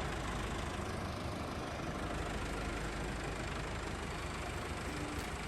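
Massey Ferguson 385 tractor's diesel engine idling steadily.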